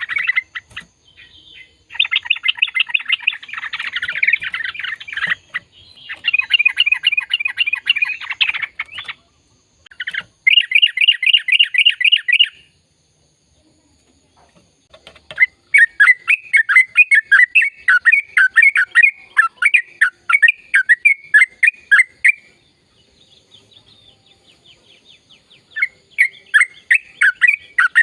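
Yellow-vented bulbul (trucukan) singing in long, rapid chattering phrases, each a fast string of repeated bubbling notes lasting a few seconds, with short pauses between. The longest phrase runs through the middle.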